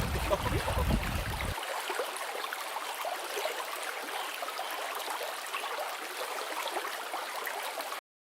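River water rushing and babbling, a steady dense noise, with a low rumble under it for the first second and a half. It cuts off abruptly near the end.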